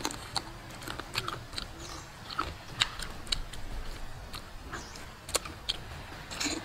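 A person eating braised chicken by hand, chewing and smacking the lips while sucking meat off the bones: many short, sharp, irregular mouth clicks.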